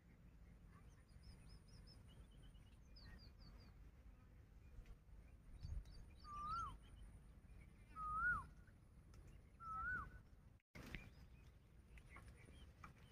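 Birds calling: scattered short high chirps and three louder whistled calls about two seconds apart, each rising then dropping, over a faint steady high tone and low background rumble. The sound cuts out for a moment near the end.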